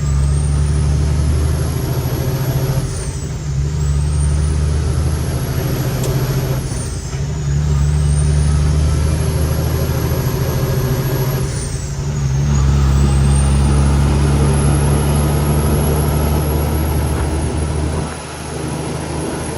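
Cummins X15 diesel of a loaded Kenworth T800 truck pulling hard, with a loud high intake whistle. At three gear shifts about four seconds apart the engine note breaks briefly and the whistle falls, then climbs again; from about twelve seconds in it pulls steadily in gear.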